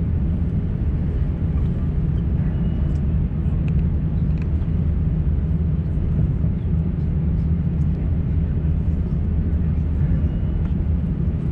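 Steady low drone of an Airbus A350-900 heard from inside the passenger cabin, an even hum with no change in level.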